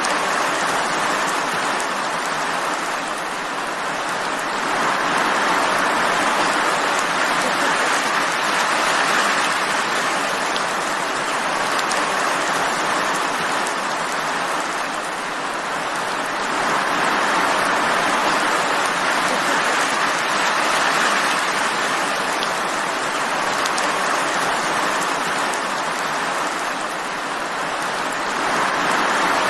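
Steady heavy rain falling in a dense, even hiss that slowly swells and eases, growing louder about five seconds in and again about seventeen seconds in.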